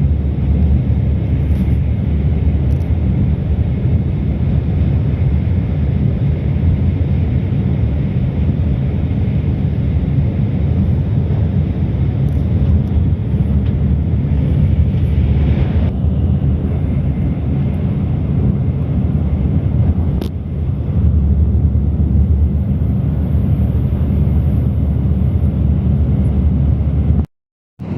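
Steady low rumble of a Shinkansen bullet train in motion, with a single sharp click about twenty seconds in. The sound cuts out briefly near the end.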